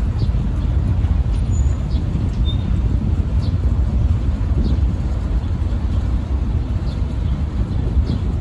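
Steady low engine rumble of a heavy vehicle, with a few faint short high chirps a second or two apart.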